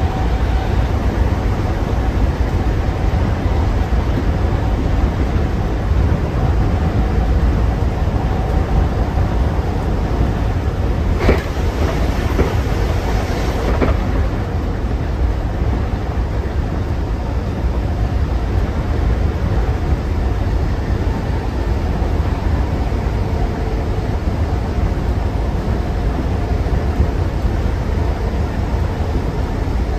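Inside a Class 319 electric multiple unit under way: a steady low rumble of the wheels and running gear on the track. A single sharp knock comes about eleven seconds in, followed by a couple of seconds of hiss.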